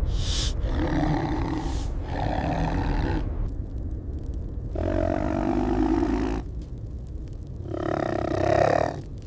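Tiger cub growling and roaring in a series of about five calls, each a second or so long, with short gaps between them.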